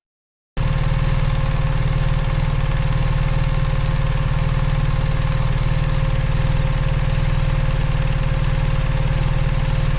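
Motorcycle engine running steadily at idle with an even, low pulsing note. It cuts in abruptly about half a second in.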